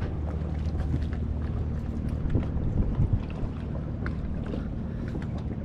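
Steady low wind rumble on the microphone out on deck, with faint scattered small clicks.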